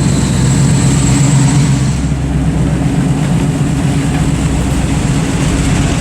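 Car engine running with a steady, low rumble.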